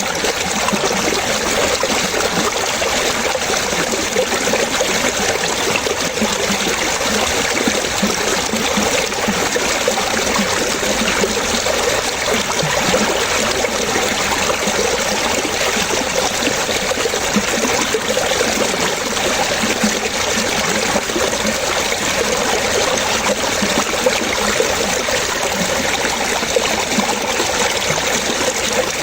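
Water running and trickling steadily, a stream or brook over stones, with fine bubbling splashes and no pauses.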